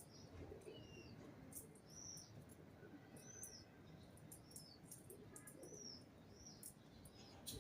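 Small birds chirping faintly, short high chirps that rise and fall, repeating about once a second.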